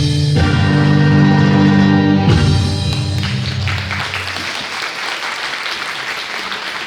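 Oriental dance music ends on long held notes, and audience applause rises about three seconds in and carries on as the music fades out.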